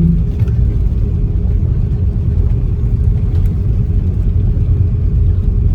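Steady low rumble inside an Airbus A330-300's cabin while it taxis, from its Rolls-Royce Trent 700 engines at taxi idle and the airframe rolling on the taxiway.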